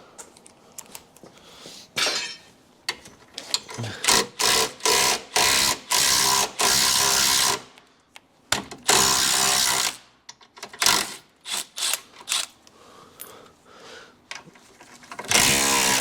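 Cordless power driver with a 12 mm socket spinning bolts out, running in repeated bursts of one to two seconds with short clicks and knocks between them.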